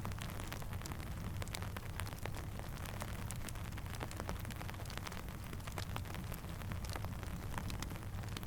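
Steady rain falling, with a low rumble underneath and many scattered sharp ticks and pops from drops and a crackling campfire.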